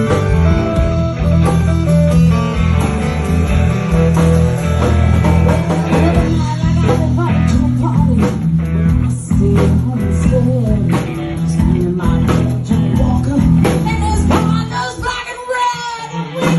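Live rock band playing an instrumental passage: bass and drums holding a groove under an electric guitar line with bent notes.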